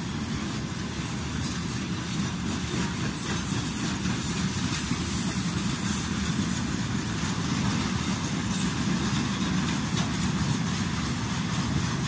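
Freight train wagons rolling past close by: a steady rumble of steel wheels on the rails, with occasional faint clicks.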